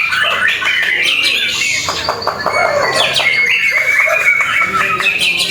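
White-rumped shama (murai batu) singing loudly: a dense, continuous run of varied whistles, rising and falling sweeps and rapid chattering notes.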